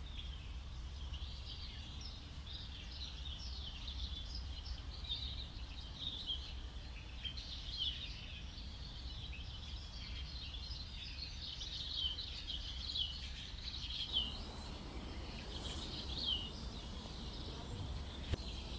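Tropical rainforest ambience: many birds chirping in a dense, overlapping chorus of short, high calls over a steady low rumble. The background noise changes about fourteen seconds in.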